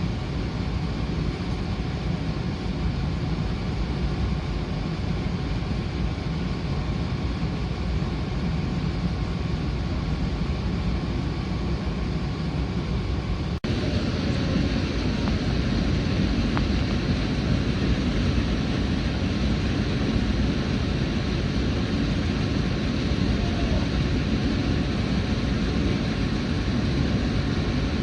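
Steady running noise of the WEST EXPRESS Ginga train heard inside the carriage: a constant low rumble of wheels on rails. About halfway through it cuts and resumes a little louder.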